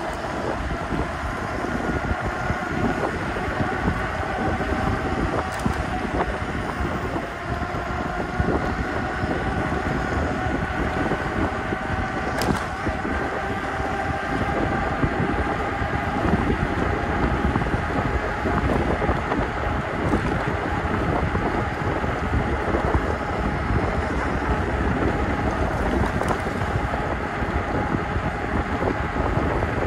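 Electric bike riding: wind buffets the chest-mounted microphone, and beneath it a faint electric-motor whine slowly rises in pitch as the bike speeds up. A few faint clicks sound along the way.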